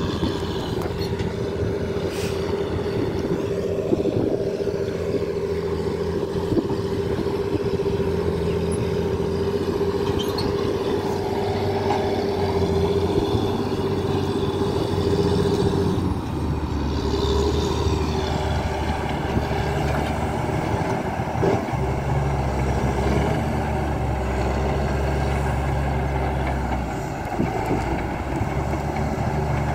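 A vehicle engine, truck-like, running continuously with a steady whine over it. The whine fades about halfway through, and the engine note settles lower twice.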